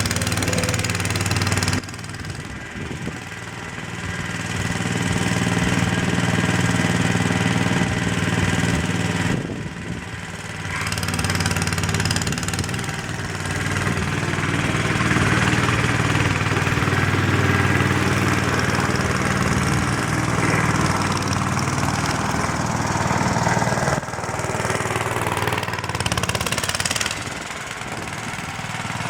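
Mayrath mini tractor's 8 hp Briggs & Stratton single-cylinder engine running, its sound dropping and picking up again several times.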